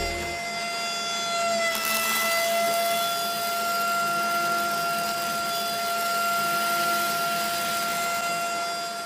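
Small electric motor whining at a steady high pitch, rising slightly as it spins up, with a hiss joining about two seconds in.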